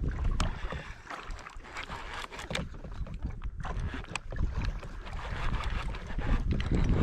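Ocean water sloshing and splashing against a kayak hull, with wind rumbling on the microphone and scattered sharp taps and knocks. The low rumble swells near the end.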